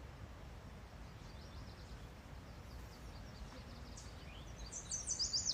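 A small songbird calling, with faint high chirps that build to a quick run of short falling chirps near the end, over a faint low outdoor background hum.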